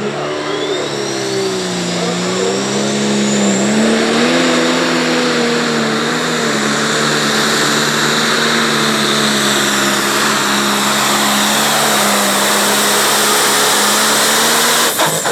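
Heavily modified pulling tractor engine running flat out under load during a pull, holding a steady, slightly wavering pitch with a high whistle rising over the first few seconds. It cuts back sharply near the end, and a whistle falls away.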